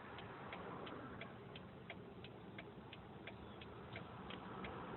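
Car turn-signal indicator ticking evenly, about three clicks a second, over faint low hum from the running car.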